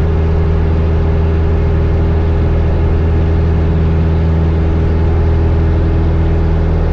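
1972 Cessna Skyhawk's four-cylinder Lycoming engine and propeller running at full power during the takeoff roll, a loud, steady drone at an even pitch.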